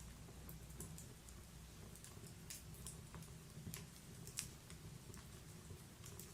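Wood fire in a log-burning fireplace crackling softly: scattered, irregular small pops and snaps, with one sharper pop a little past the middle.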